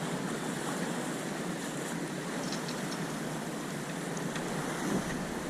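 Sea waves washing steadily with wind on the microphone, with a few faint clicks.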